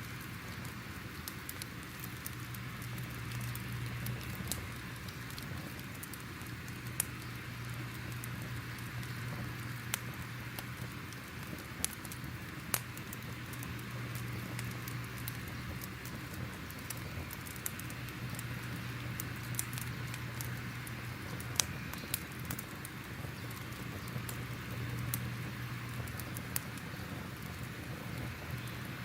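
Crackling fire: a steady hiss with scattered, irregular sharp pops and snaps.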